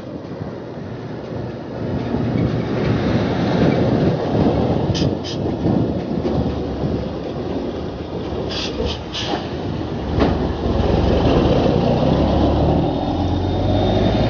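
Rumble of wind and road noise on the microphone of a moving bicycle, with a few sharp clicks about five and nine seconds in. From about ten seconds in, a motor vehicle's engine hum grows louder and steady as it comes alongside.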